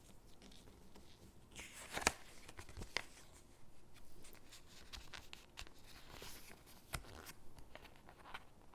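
Stickers peeled off their backing sheet and pressed onto paper cutouts: soft peeling and paper rustling, with a few sharp clicks, the loudest about two seconds in.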